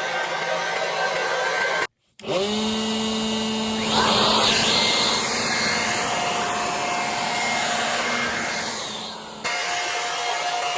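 A small electric blower running and blowing a steady rush of air. The sound cuts out briefly about two seconds in, then the motor spins back up with a short rising whine and a steady hum. The rush of air gets louder about four seconds in, and the sound changes abruptly near the end.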